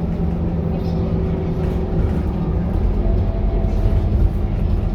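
Scania K230UB city bus's five-cylinder diesel engine running with a steady drone as the bus drives.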